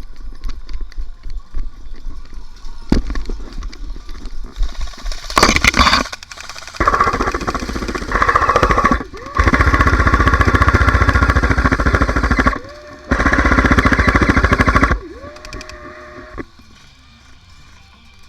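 Airsoft guns firing long full-auto bursts, a fast rapid-fire rattle in three stretches about seven, nine and a half and thirteen seconds in, with scattered clicks and knocks before them.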